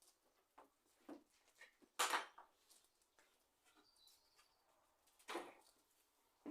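Faint clicks and rustling from engine parts being handled by hand, with two louder brief scraping bursts, about two seconds in and again near the end.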